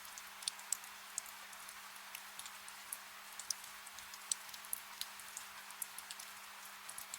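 Soft rain: a steady hiss of rainfall with irregular close drips ticking several times a second, over a faint low hum.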